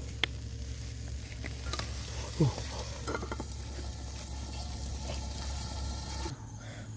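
Frogs and potato slices sizzling in a hot wok over a wood fire, an even frying hiss that cuts off abruptly shortly before the end. A sharp click comes near the start, and a brief downward-sliding sound about two and a half seconds in.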